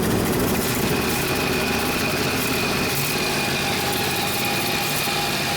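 1976 Ford F-600 dump truck's carbureted engine idling steadily, with a thin high whine setting in about a second in and holding. The owners have diagnosed a vacuum leak and say the water pump sounds terrible.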